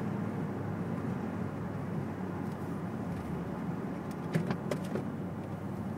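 Steady, quiet hum of engine and tyres inside the cabin of a 2003 Mercedes-Benz SL55 AMG driving slowly with the roof up. A few light clicks come about four and a half seconds in.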